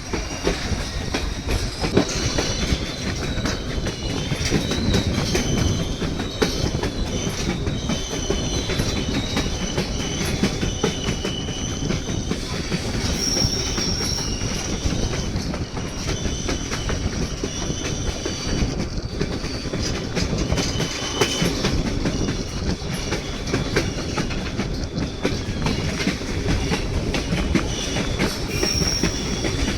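White Pass & Yukon Route narrow-gauge train running, with a steady rumble and clicking wheels over the rail joints. High wavering wheel squeal comes and goes throughout as the wheels grind on curves.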